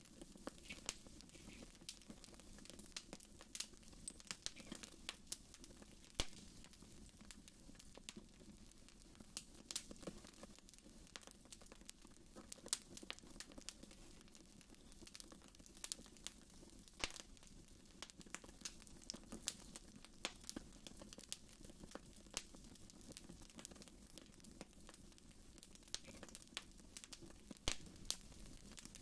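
Fire crackling in a fireplace: quiet, irregular pops and snaps, several a second at times, over a faint steady low rumble.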